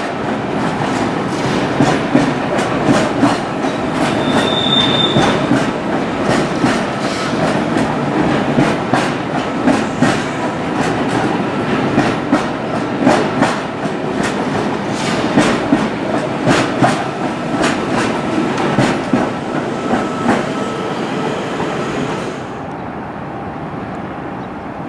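Double-deck electric suburban train running past, its wheels clattering over rail joints in an uneven run of clicks, with a brief high wheel squeal about five seconds in. Near the end the clatter cuts off suddenly, leaving a quieter steady background.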